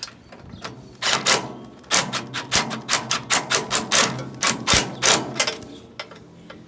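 Ratchet wrench clicking in short runs of sharp clicks as the carburetor float bowl is tightened down a little at a time.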